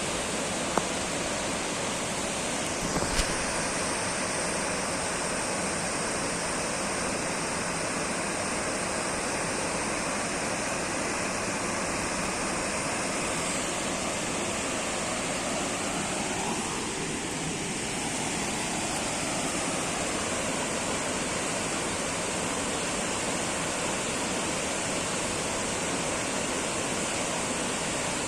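Waterfall: water falling and splashing, a steady even rush of noise.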